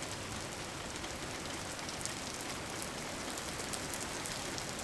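Steady rain falling, an even patter with faint scattered drops.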